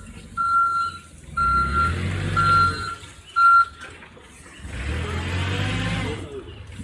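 Truck reversing alarm beeping steadily, four beeps about a second apart, over the low rumble of the truck's engine. The beeping stops a little past halfway, and the engine rumble swells again near the end.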